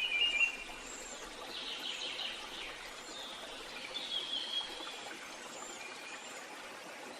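Several birds chirping and trilling over a steady background hiss. The loudest calls come right at the start, with more bursts about two seconds and four seconds in, and short high chirps scattered between them.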